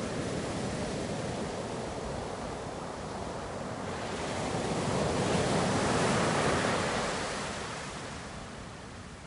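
Ocean waves on the shore: a steady rush of surf, with one wave swelling about four seconds in, loudest in the middle, then washing back and fading near the end.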